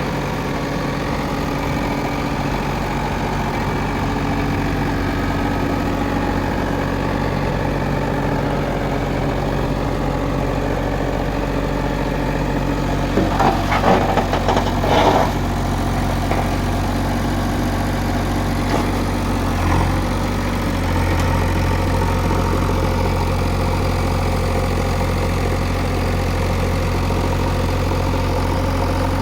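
Heavy machine's diesel engine running steadily near idle, with a burst of clattering knocks about halfway through and the engine note stepping up slightly a little later.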